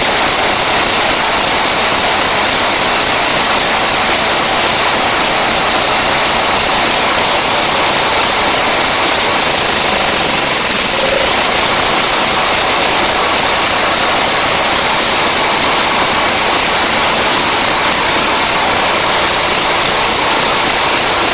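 Husqvarna ST224 snowblower engine running loudly and steadily after its carburettor work.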